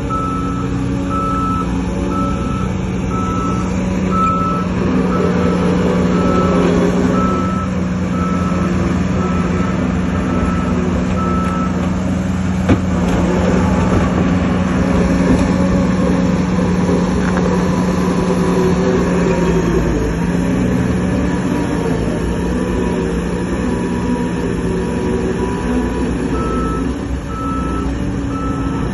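Diesel engines of heavy earthmoving equipment running steadily, with a reversing alarm beeping about one and a half times a second. The beeping stops about twelve seconds in and starts again near the end. A single sharp knock comes about halfway through.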